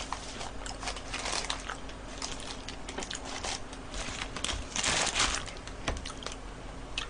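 Close-miked chewing of a fast-food burger: a run of small wet clicks and smacks. Paper burger wrappers crinkle as they are handled, loudest about five seconds in.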